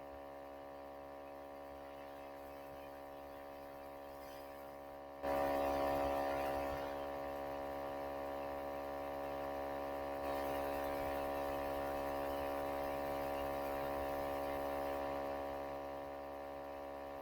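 Steady electrical hum and buzz, many even tones held together with no speech. About five seconds in it suddenly gets louder with added hiss, then eases down gradually and drops back near the end.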